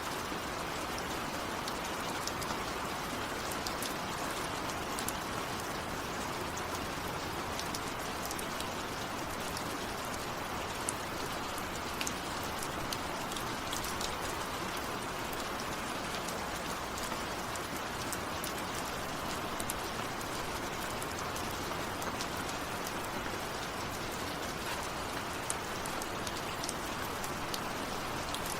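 Steady rain, with individual drops heard as scattered small ticks over an even hiss.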